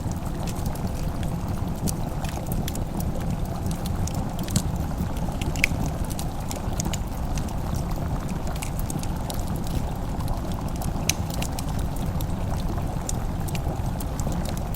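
Log fire crackling: scattered sharp pops and clicks, a few louder ones, over a steady low rumble.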